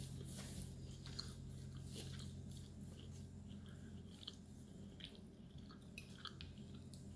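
A person chewing food quietly, with a few soft, scattered mouth clicks over a faint steady hum.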